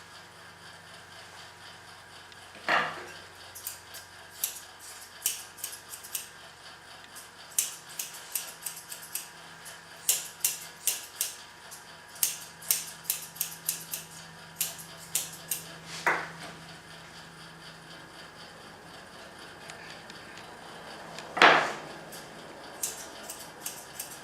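Grooming scissors snipping around a dog's face: quick runs of sharp metallic clicks, with pauses between runs. A few louder brief sounds stand out, the loudest a little before the end.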